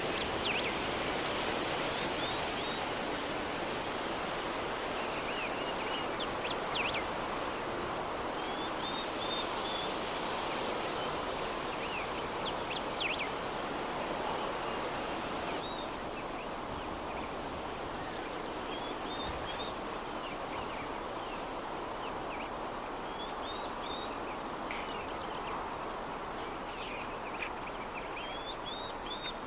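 Soft, steady breeze ambience, with short high chirps now and then.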